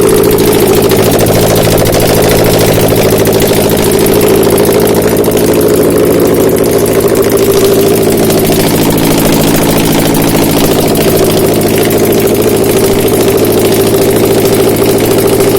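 Subaru FB20 2.0-litre flat-four engine running steadily at idle on a test stand, its note even throughout.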